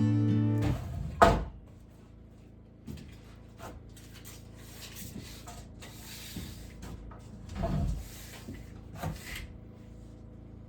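Acoustic guitar music cuts off, then one sharp knock, followed by scattered lighter knocks, rubbing and shuffling, with a duller thump near the end.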